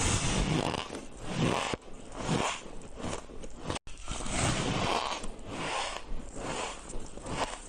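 A person biting and chewing white shaved ice, crunching it in repeated bites about once a second.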